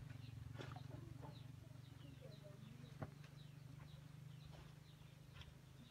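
Faint chirping of small birds, many short high calls following one another, over a low steady hum. A single sharp click about three seconds in.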